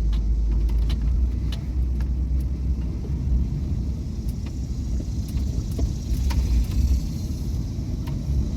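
Car driving slowly, heard from inside: a steady low rumble of engine and tyres, with a few faint ticks.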